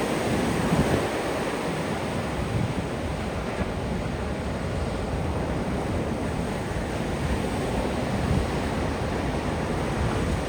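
Ocean surf washing onto a beach in a steady rush of noise, with wind rumbling on the microphone, most plainly about a second in.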